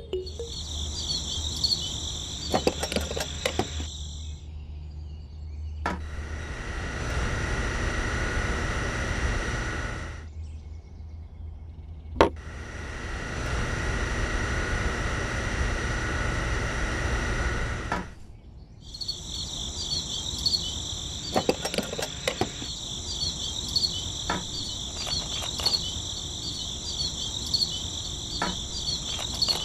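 Crickets chirping in a steady pulsing chorus, broken in the middle by a small hand-held electric drill whirring in two runs of about four and six seconds as it bores into a plastic barrel lid. Light clicks of small parts being handled, with one sharp click between the two drill runs.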